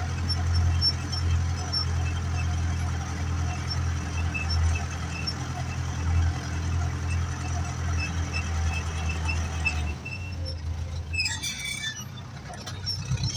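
Ursus 385 tractor's four-cylinder diesel engine running steadily under ploughing load, a low even drone. About ten seconds in the engine sound drops away and high metallic squeaks and rattles come through near the end.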